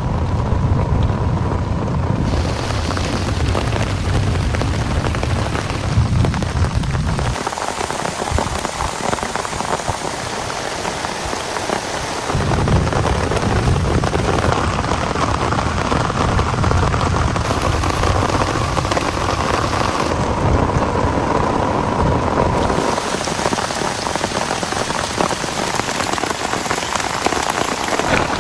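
Heavy rain pouring down steadily, with a low rumble that comes and goes in long stretches.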